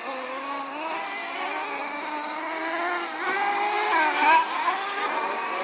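Engines of several offroad racing vehicles running at once, their pitch rising and falling as they rev. One climbs and is loudest about four seconds in.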